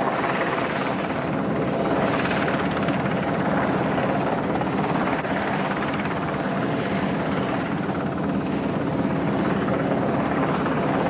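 Helicopter close overhead, its rotor and engine running loud and steady.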